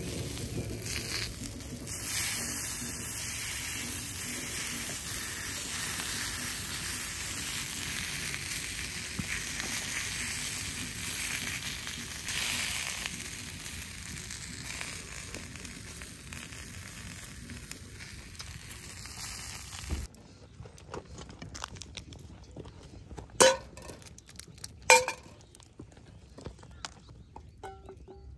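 Sausages and cabbage sizzling in a cast iron skillet over a wood fire, a steady frying hiss. About two-thirds through it cuts to a quieter background, broken near the end by two sharp knocks about a second and a half apart.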